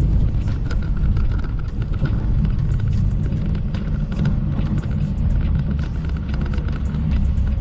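Semi-truck running on the highway: a steady low engine and road rumble with many small rattles and clicks.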